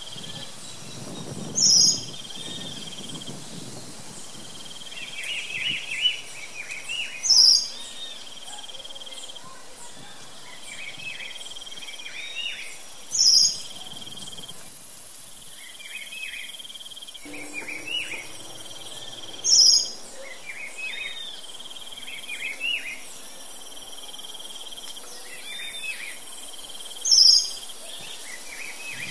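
Songbirds chirping in repeated short phrases over a steady chorus of crickets, with five short, loud, high calls spaced several seconds apart.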